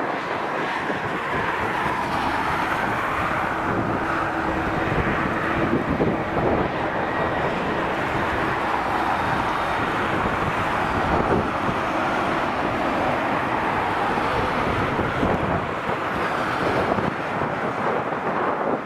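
Airbus A330's twin CF6-80 turbofan engines running steadily at taxi power, with wind buffeting the microphone.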